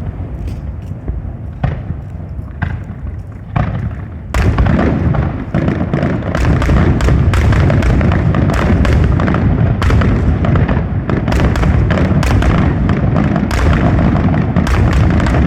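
Fireworks display: scattered booming bursts for the first few seconds, then from about four seconds in a dense, continuous barrage of booms and crackles.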